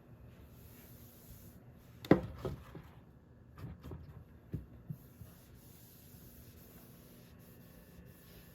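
A handful of short knocks and rubbing scrapes, the loudest about two seconds in, then low room hum.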